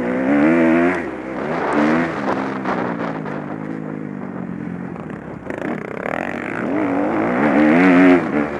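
Motocross bike engines revving up and down with the throttle, rising and falling in pitch, loudest about a second in and again near the end.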